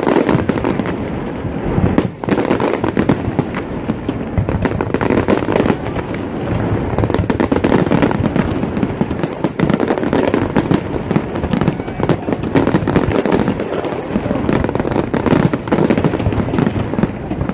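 Fireworks display going off: many bangs and crackles in quick succession, without a break.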